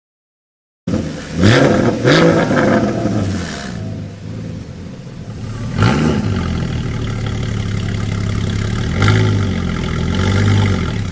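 Porsche Cayman GT4's flat-six with a Fabspeed valvetronic exhaust, idling and blipped several times: two quick revs close together about a second in, another a few seconds later, and a longer rev near the end, each rising and falling back to idle. The sound cuts in suddenly after about a second of silence.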